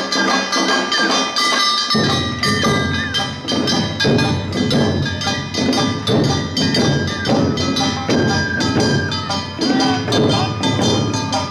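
Live Awa Odori narimono (festival band) music: a bamboo flute carries a melody with little pitch slides, over a rhythmic beat of a small hand gong (kane) and drums. Deep drums come in about two seconds in.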